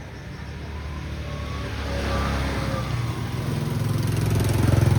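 A motor vehicle's engine on the highway approaching, getting steadily louder and loudest near the end.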